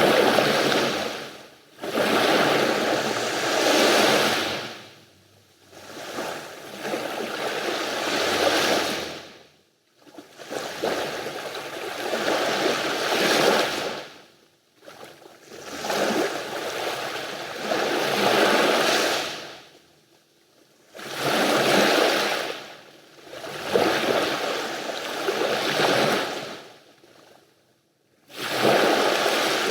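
Sea waves washing onto the shore in repeated surges, each swelling to a rush and falling away, about every three to four seconds with brief lulls between.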